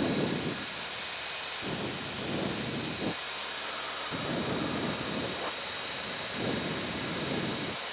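Cockpit noise of a Cessna 177 Cardinal during landing: a steady hiss of airflow and engine, with repeated low rumbling gusts of wind buffeting the microphone every second or two.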